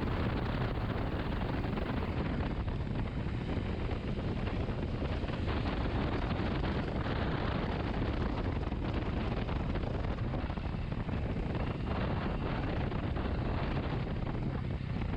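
Steady wind rush on the microphone with the dull running noise of a motorcycle on the move, fairly quiet and unchanging.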